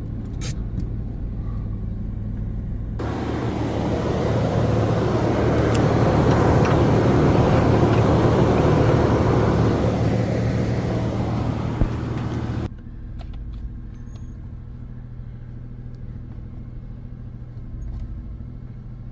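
Vehicle engine running steadily. For several seconds in the middle a much louder rushing noise swells up, then cuts off suddenly.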